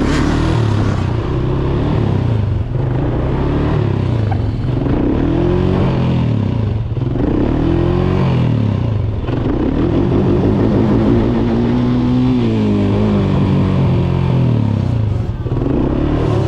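Dirt bike engine being ridden hard, revving up and dropping back again and again as the rider works the throttle and gears.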